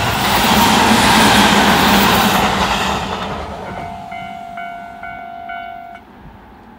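Tobu 20400-series electric commuter train passing close by, a loud rushing rumble of wheels and running gear that peaks about a second in and fades as the last car goes by. After it has passed, a steady ringing tone, broken every half second or so, sounds and cuts off about six seconds in.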